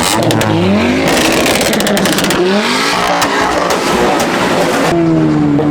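Car engines revving hard, their pitch rising several times in quick succession, mixed with a rapid run of sharp cracks. Music with held notes comes in near the end.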